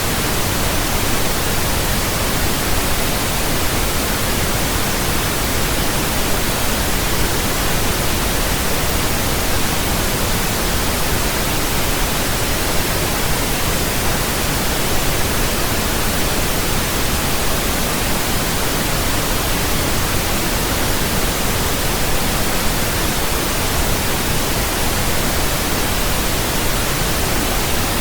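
Steady pink noise: an even, flat hiss spread over all pitches, deeper than white noise, unchanging throughout.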